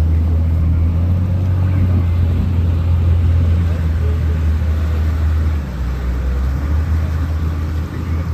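Steady low boat engine drone, easing slightly in level a little past halfway.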